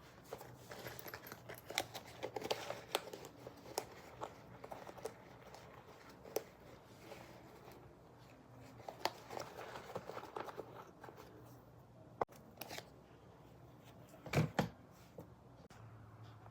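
Packaging being opened and handled by hand: irregular rustling, tearing and crinkling with small clicks, and a louder pair of sharp snaps near the end.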